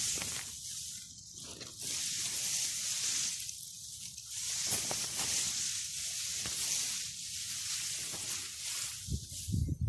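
Barley rustling in the field: a steady hiss that swells and fades every second or two.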